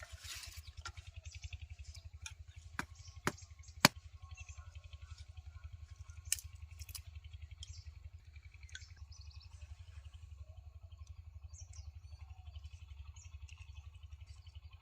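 Several sharp snaps or clicks, the loudest about four seconds in, over a steady low rumble.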